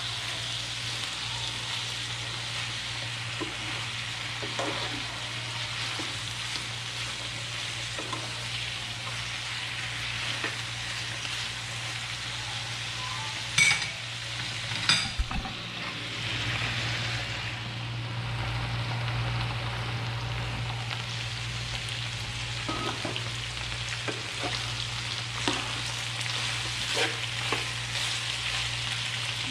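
Chicken, potatoes and carrots sizzling in a frying pan while being stirred with a spatula, with small scrapes and clicks of the utensil against the pan. There are two sharp knocks about halfway through.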